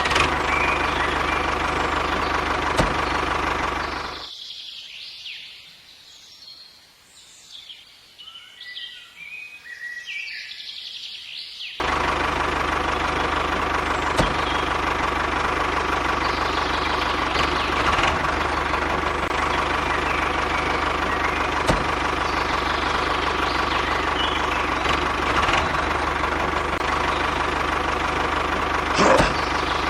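Engine running steadily. About four seconds in it drops away, leaving a quiet stretch with a few bird chirps, and just before twelve seconds it comes back abruptly and keeps running.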